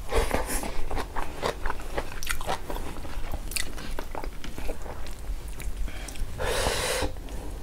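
Close-miked mouth sounds of a person eating rice, greens and pork by hand: wet chewing and smacking in many short strokes, with a short noisy breath near the end.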